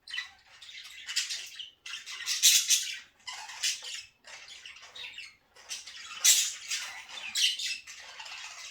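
Several budgies chattering and squawking in bursts of high-pitched warbling, chirps and sharp calls, with short pauses between clusters.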